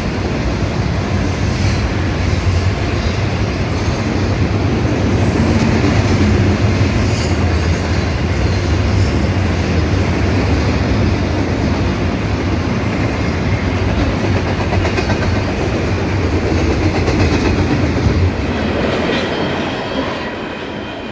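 CN double-stack container train rolling past: a steady loud rumble of steel wheels on rail with faint clatter. It gets quieter in the last few seconds.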